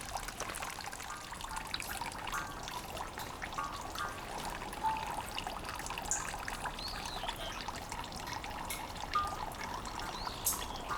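Heavy rain falling steadily, with water trickling and running and many small drips splashing. A few brief ringing drip-like notes sound over it.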